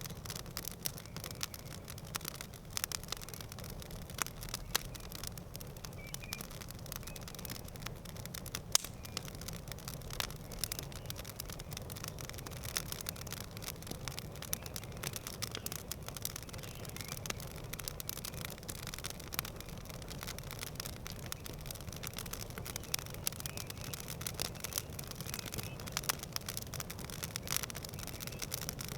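Campfire crackling: irregular sharp pops and snaps of burning wood, some louder than others, over a steady low rumble.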